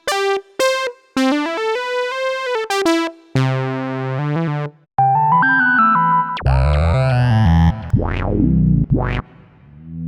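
Roland System-100 software synthesizer patches being auditioned one after another: short buzzy notes stepping in pitch, then brighter held notes and chords, a wobbling tone, and near the end two fast swooping pitch sweeps.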